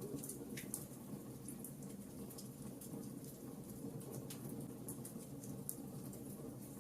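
Wood fire crackling: a steady low rumble of burning with irregular sharp pops and snaps.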